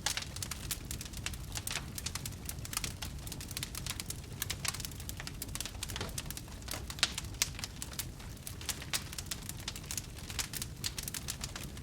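Burning wood fire crackling: a dense run of quick, sharp pops and snaps over a steady low rumble.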